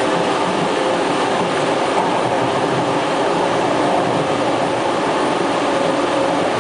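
Toronto TTC subway train running steadily through a tunnel on the Yonge line: a continuous rumble of wheels on rail with a faint steady hum in it.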